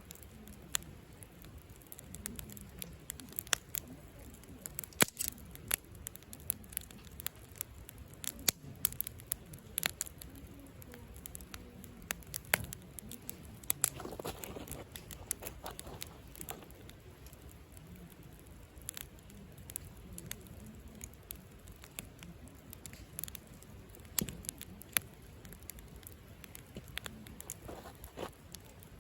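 Wood campfire crackling and popping: irregular sharp snaps of varying loudness over a low, steady rush of flame, the pops coming thickest in the first half.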